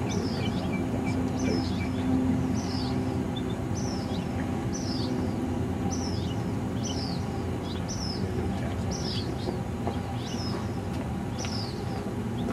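A bird chirping over and over, a short falling chirp about once a second, with a quicker twitter in the first second or so. A steady low hum runs underneath.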